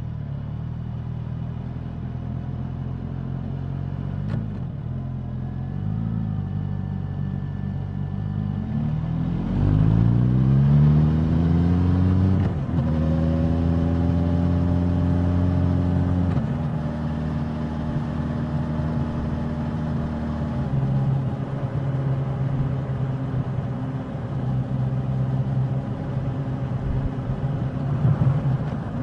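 Suzuki GSX-S1000's inline-four exhaust. It runs steadily at low revs for several seconds, then revs climb under acceleration from about ten seconds in, with a short break at a gear change. It holds a higher steady note, then eases back about halfway through and runs steadily to the end.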